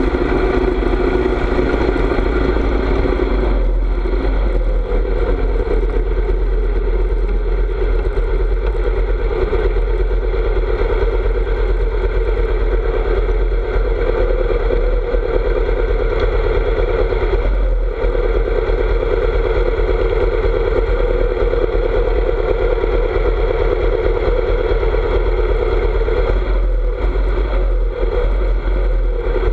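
Harley-Davidson V-twin engine running steadily on the road, with a low rumble and wind noise on the microphone; the engine note shifts a few times, around 4, 18 and 27 seconds in.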